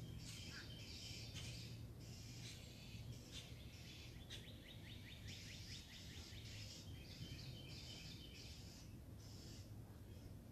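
Faint birdsong: several birds chirping in short high phrases, with one quick trill of about ten notes a second around the middle.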